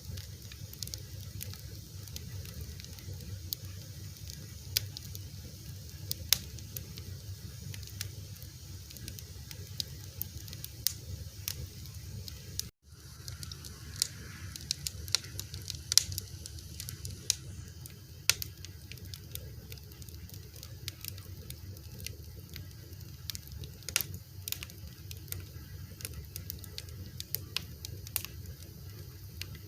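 A fire crackling: frequent, irregular sharp pops and snaps over a steady low rumble. The sound drops out for an instant about a third of the way in.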